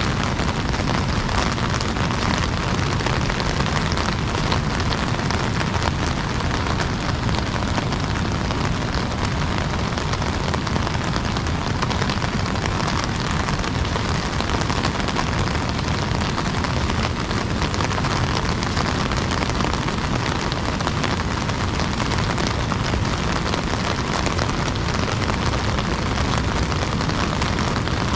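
Heavy rain drumming steadily on an umbrella, a dense unbroken patter of drops over a low rumble.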